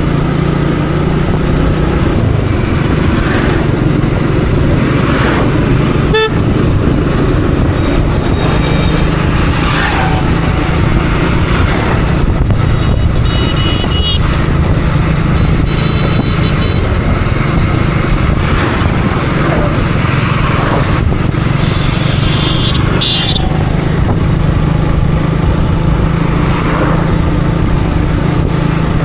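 Motorcycle engine running steadily while riding through city traffic, with several short vehicle horn toots scattered through.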